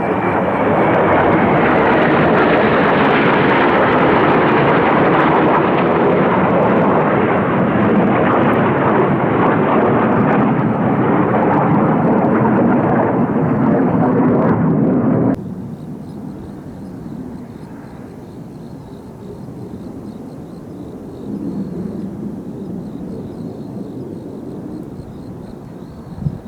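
Kawasaki T-4 jet trainers of the Blue Impulse team flying past low, a loud jet roar with a falling whine at the start. It cuts off suddenly about fifteen seconds in, leaving fainter, distant jet noise.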